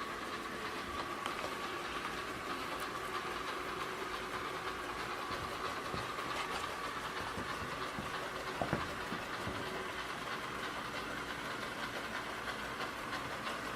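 Chuwi ILIFE V5s robot vacuum running steadily, its motor and brushes whirring as it drives back toward its charging dock, with one light knock about two-thirds of the way through.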